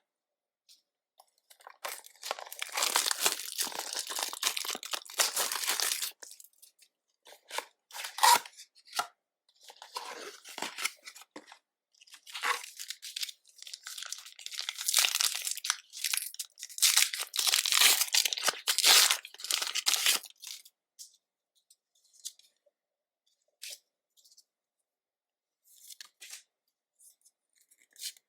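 Foil Pokémon booster pack wrappers being torn open and crinkled, in long rustling, crackling stretches through the first two thirds. Near the end only a few faint ticks from the cards being handled.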